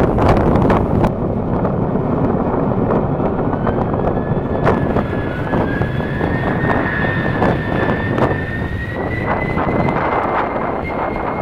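Jet airliner engines running, a loud rumble with a high turbine whine that comes in about halfway and rises slowly in pitch. Wind buffets the microphone throughout.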